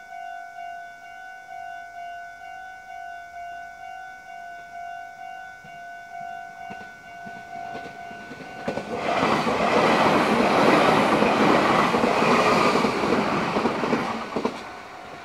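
Level crossing alarm ringing in a steady beat, about two strokes a second, then a Meitetsu electric train passes close by. The train is loud for about six seconds and cuts off fairly sharply near the end, with the crossing bell still faintly ringing behind it.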